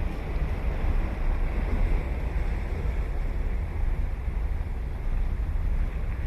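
Ocean surf washing steadily onto a beach, with wind buffeting the microphone as a low rumble underneath.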